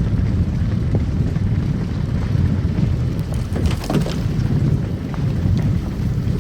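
Car driving on a snow-covered road: a steady low rumble of tyres and engine, with a brief crackle about four seconds in.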